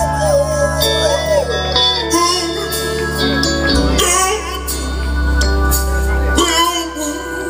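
Live soul band playing, with singing over steady bass and guitar, heard through amplified speakers.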